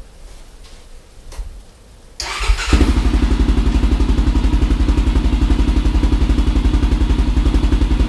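A 1999 Honda 400EX quad's single-cylinder four-stroke engine, breathing through an FMF Q4 slip-on muffler with its spark arrestor in, starts up about two seconds in after a brief crank and settles into a loud, steady idle with an even, rapid exhaust pulse.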